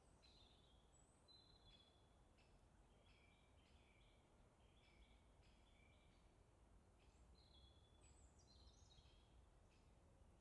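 Faint birdsong: short chirps and whistled notes repeating, with a run of notes stepping down in pitch about eight seconds in, over a low steady rumble.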